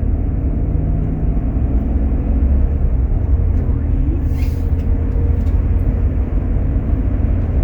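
Steady low road and engine rumble from a 2018 Chevrolet Suburban cruising on a test drive, with its freshly rebuilt 6L80 automatic transmission in a high gear. There is a brief hiss about halfway through.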